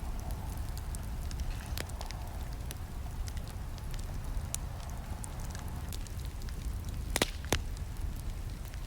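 Campfire burning: a steady low rumble of flames with scattered sharp crackles and pops, the loudest pair of snaps coming close together about seven seconds in.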